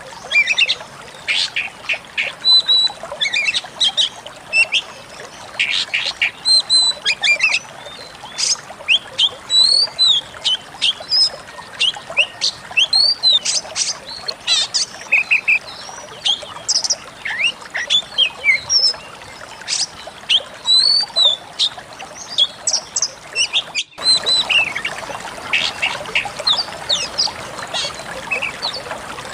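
Decu kembang singing a long, fast, unbroken run of sharp chirps, short whistles and trills, with a steady hiss behind it. The song cuts out for an instant near the end and picks up again over a louder hiss.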